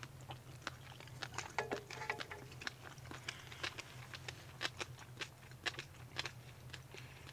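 Quiet chewing and small mouth clicks as people eat scallop carpaccio with flying fish roe, with light clicks of chopsticks against the plate. A steady low hum runs underneath.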